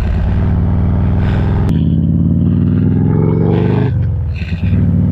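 Harley-Davidson Road Glide's V-twin engine running as the motorcycle rides along, a steady loud engine note that breaks up briefly near the end.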